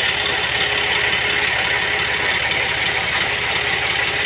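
Generator set engine running steadily after repair, with an even, fast low throb and no change in speed.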